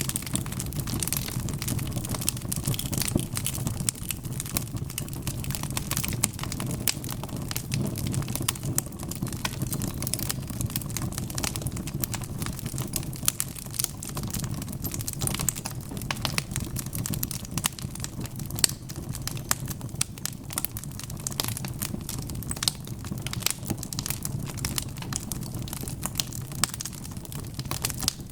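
Wood fire crackling steadily: many sharp, irregular pops and snaps over a low, even rumble of the burning fire.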